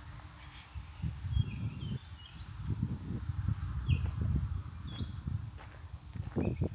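Footsteps thudding steadily along a path, with scattered short, high bird chirps above them.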